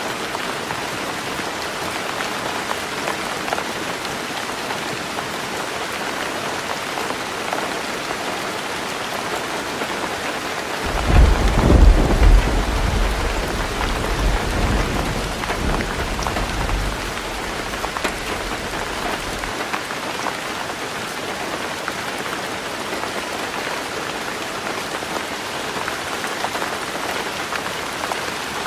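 Heavy rain falling steadily on a roof. About eleven seconds in, a deep roll of thunder starts suddenly, is loudest in its first seconds, then rumbles away over the next several seconds.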